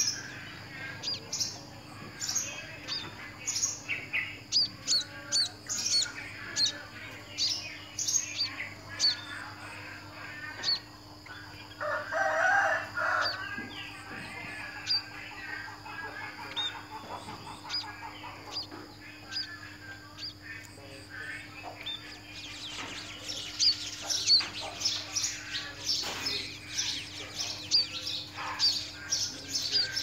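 Small birds chirping: short, high chirps about once or twice a second, growing into dense chirping in the last several seconds. One louder, lower call lasts about a second and a half, about twelve seconds in.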